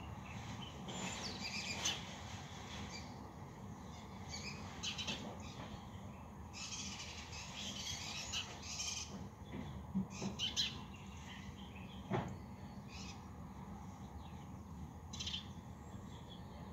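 Birds chirping and twittering in scattered bursts, over steady low background noise, with a few sharp clicks in between.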